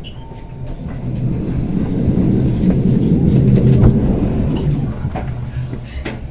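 Bernina Express train running on the rails: a low rumble that swells to its loudest about halfway through and then eases, with scattered sharp clicks and knocks from the track and carriage.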